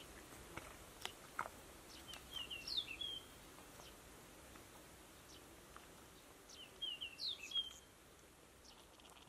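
A bird singing a short phrase of quick chirps twice, about four seconds apart, over faint open-field ambience with a few scattered small clicks. The background fades down near the end.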